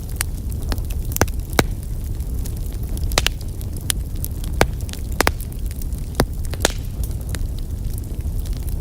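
Wood fire burning in a fireplace: a steady low rumble of the flames with irregular sharp crackles and pops, about one or two a second.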